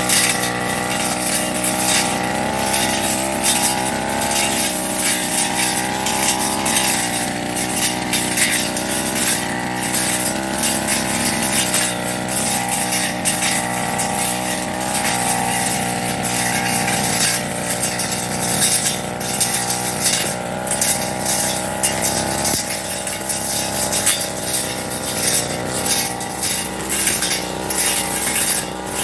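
Firman FGB389 brush cutter running at working speed, its engine pitch wavering under load as the metal Tanika blade cuts grass. Frequent sharp ticks and clinks come from the blade striking stems and debris.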